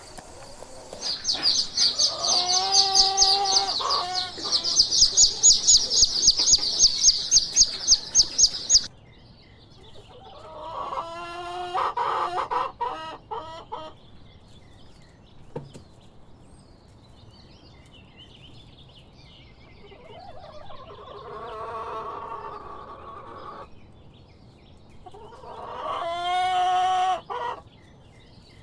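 Chickens clucking and a rooster crowing, in several separate calls. A fast, high chirping runs through the first several seconds.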